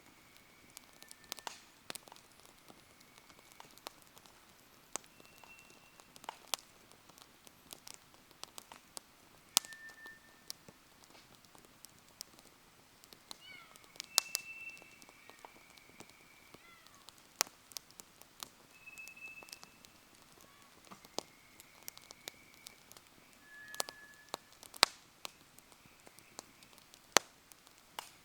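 Wood fire crackling, with irregular sharp pops and snaps and several brief, steady high whistles from the burning wood.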